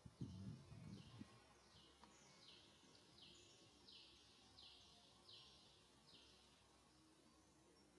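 Faint bird calls: a regular series of short, high notes, each falling in pitch, about one every 0.7 seconds, with a brief low rumble near the start.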